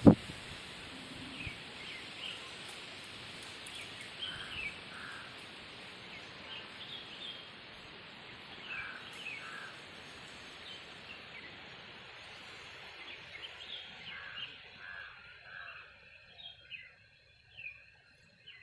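Birds chirping and calling in short, repeated notes over a steady background hiss, which drops away in the last few seconds. A single sharp loud knock at the very start.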